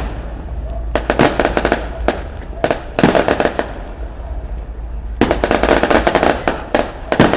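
Fireworks barrage: volleys of rapid, sharp bangs and crackles. Four clusters come about a second in, around three seconds, from about five to six and a half seconds, and again near the end.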